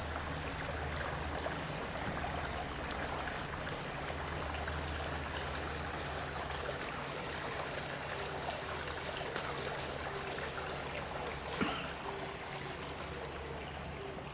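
Steady rush of running water, with a low hum under it and one sharp click near the end.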